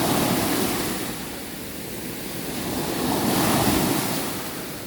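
Sea waves washing onto the shore, the surf swelling up twice: once at the start and again a little past the middle.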